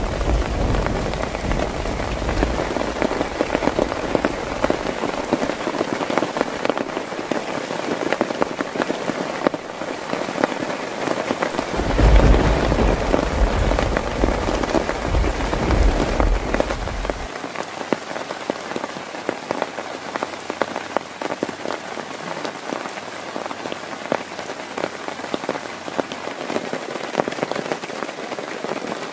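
Heavy rain falling steadily, with a deep rumble at the start and again about twelve seconds in.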